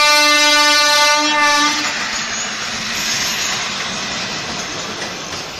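A train horn gives one steady blast for about two seconds, followed by the rushing noise of the train running past, slowly fading.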